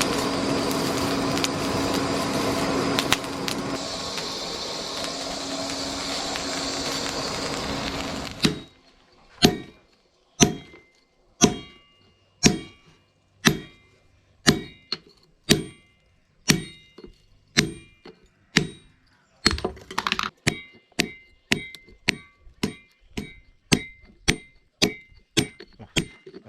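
Hammer blows on steel, evenly paced at about one a second and quickening slightly near the end, each strike ringing briefly with a metallic tone: hand-forging the chainsaw-bar steel into a cleaver. For the first eight seconds or so a dense, steady sound plays instead, stopping abruptly.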